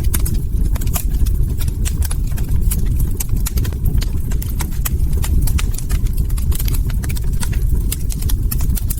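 Log fire crackling: frequent irregular sharp pops and snaps over a steady low rumble of burning wood.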